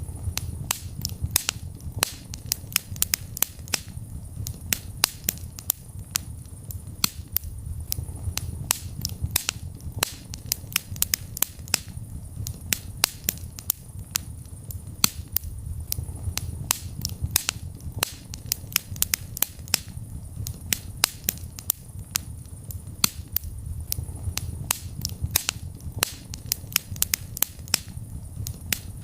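Wood fire crackling in a fireplace: frequent irregular sharp pops and snaps, several a second, over a steady low rumble of the flames.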